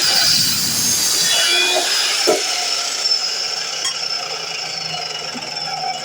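DeWalt miter saw cutting metal conduit: a loud, high metallic screech with steady ringing tones. A high whine slowly falls in pitch over the first few seconds.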